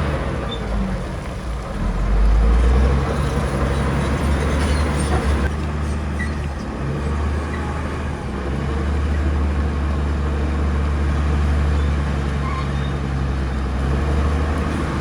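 Heavy diesel engine of earthmoving machinery running under load. It swells louder with a deeper note about two seconds in, then holds steady.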